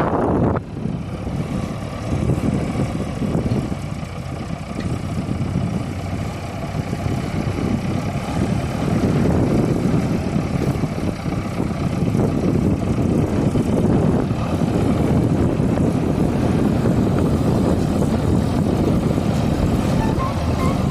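Heavy diesel engines of a farm tractor and a backhoe loader running hard, working to free a loaded trolley stuck in mud. The sound drops sharply about half a second in, then swells and eases.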